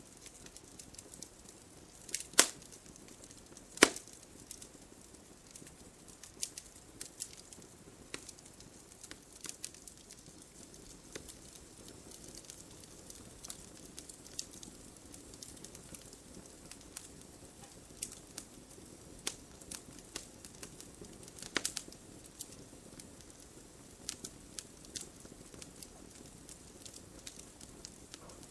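Campfire crackling: burning wood giving off irregular sharp pops and snaps over a faint steady hiss, with two loud pops a couple of seconds in and another about three quarters of the way through.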